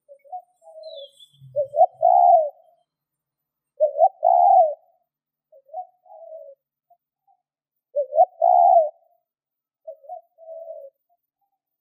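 Spotted dove cooing: short coo phrases about every two seconds, louder ones alternating with softer ones. A brief faint high chirp sounds about a second in.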